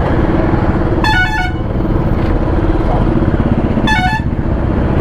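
Two short vehicle horn honks, about a second in and again near four seconds, over the steady running of a Royal Enfield Classic 350's single-cylinder engine and road noise in slow, congested highway traffic.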